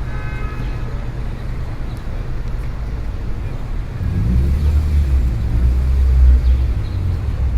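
Busy city street traffic with a steady low rumble. About halfway through, a deep engine rumble swells up close, as a heavy vehicle passes or idles nearby, then eases off near the end.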